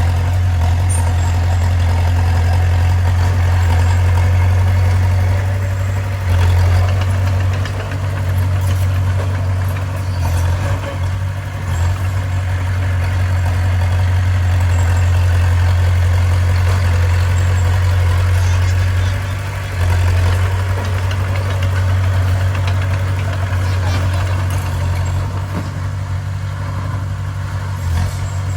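Heavy diesel engine of earthmoving machinery running steadily with a strong low drone, dipping briefly a few times.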